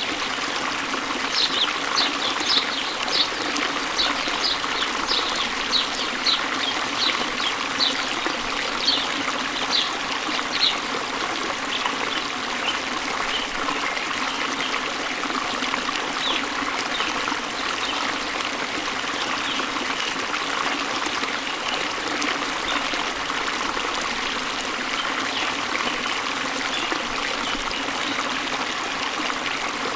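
A stream running steadily, with a bird calling in short falling chirps, about two a second, for the first ten seconds or so, then fainter, scattered chirps.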